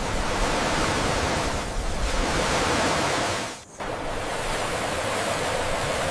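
Steady rushing water, like a river, with a brief drop in level just past halfway.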